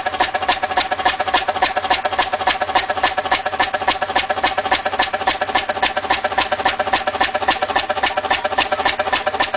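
An old engine running steadily, with a fast, even clatter of about six beats a second over a steady ringing tone.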